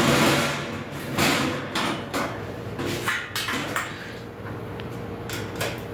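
Grill parts being handled during assembly: a series of short knocks and clatters, loudest near the start.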